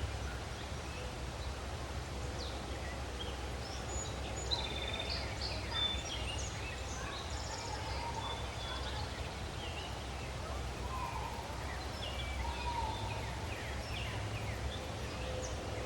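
Woodland birds calling and singing, many short high chirps and trills overlapping, with a few lower, longer calls now and then over a steady low rumble.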